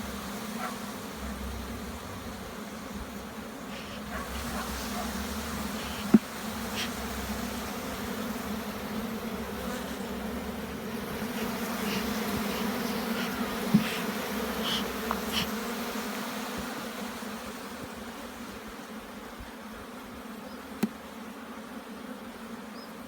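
Honey bees buzzing in a steady hum over an opened brood chamber, swelling a little toward the middle, with a few sharp clicks along the way.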